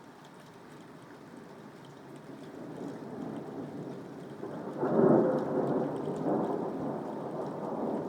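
Thunder rumbling over light rain: a low rumble that builds for a few seconds, then a sudden loud peal about five seconds in that keeps rolling.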